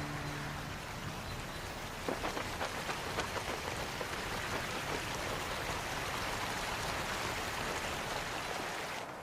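A steady, even hiss of water, with scattered sharp drips or taps between about two and three and a half seconds in. It cuts off abruptly near the end.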